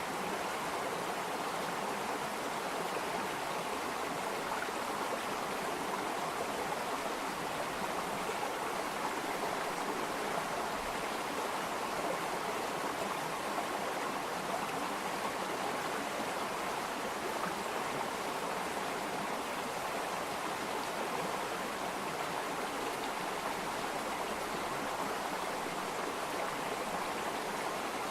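Flowing water of a stream, a steady even rushing.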